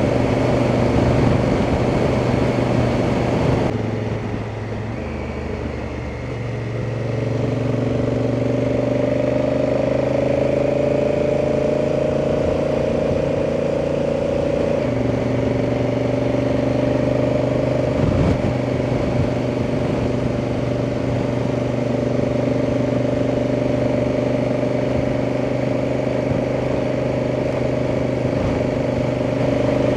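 Honda Africa Twin's parallel-twin engine running on the move, with wind noise. The engine note drops about four seconds in, then rises slowly as the bike accelerates. It steps down in pitch about fifteen seconds in, a change up a gear, and then runs steadily.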